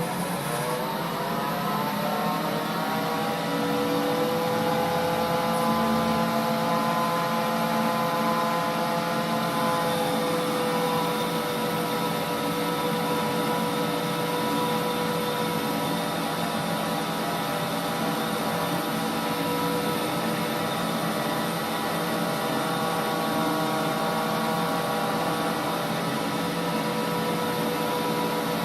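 Holbrook C8 toolroom lathe starting up: a gear whine with several tones rising in pitch over the first few seconds as the spindle runs up to speed, then running steadily.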